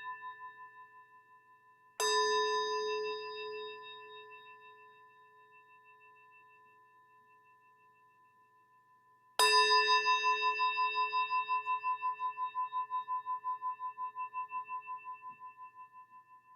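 Meditation bell struck twice, about two seconds in and again near the middle, each strike ringing on with a wavering tone that slowly fades; the ring of an earlier strike is dying away at the start. The bell is rung three times to close a meditation.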